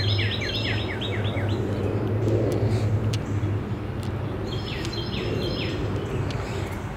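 A small bird sings quick runs of repeated chirps, at the start and again from about four and a half seconds in, over a steady low hum that eases off about halfway through.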